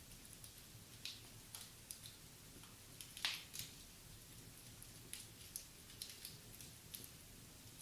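Wood fire crackling in a fireplace: irregular sharp pops and snaps, the loudest a little over three seconds in.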